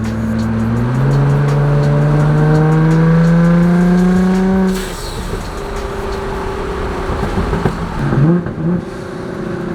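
Nissan GT-R R35's twin-turbo V6 through a Linney drag exhaust, accelerating hard with its note climbing steadily for about four seconds. About five seconds in the throttle closes and the engine drops quieter, running on unevenly off throttle, with a brief rough spell near the end.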